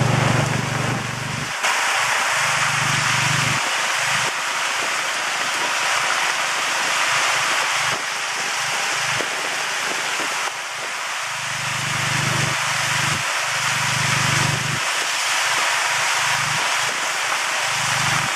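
Steady hiss of heavy rain and wet road noise heard from inside an open-sided covered cart as it moves along the road. A low engine hum swells twice, once about two seconds in and again in the middle.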